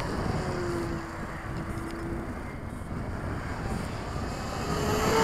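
Electric motor and propeller of a ParkZone FW 190 radio-controlled warbird in flight: a thin steady whine that fades about two seconds in, then comes back louder near the end as the plane passes close, over wind noise.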